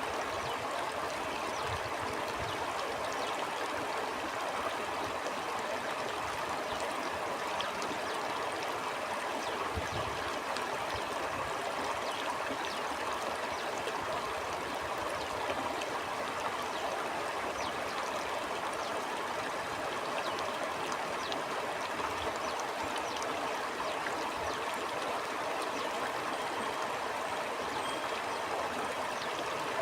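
Stream water flowing steadily, a continuous rushing and trickling with no breaks, joined now and then by a faint low thump.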